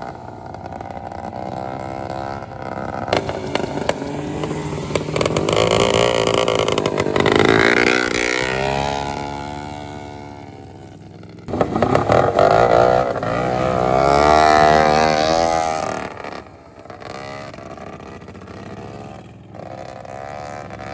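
Racing lawn mower engines running hard, the engine pitch rising and falling and growing loudest twice near the middle.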